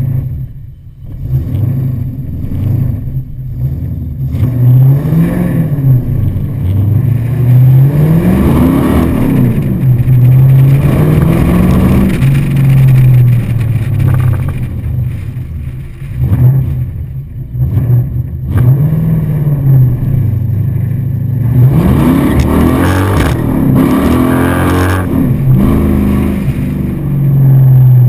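Holden 304 EFI V8 in a VH Commodore, heard from outside the driver's window as the car pulls away and drives. The revs climb several times and then drop back as it accelerates through the gears of its four-speed manual.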